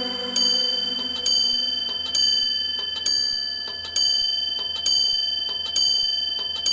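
Clock chime striking ten: evenly spaced bell strokes just under a second apart, each ringing on into the next.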